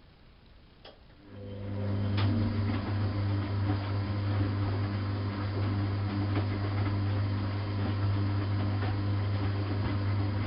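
Bosch WFK 2431 washing machine's motor starting just after a click and running the drum with a steady low hum and a rattle on top, then cutting off at the very end.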